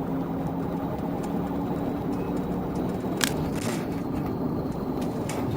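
Patrol car's engine and road noise during a high-speed pursuit: a steady engine hum over a dense rush, with one sharp click about three seconds in.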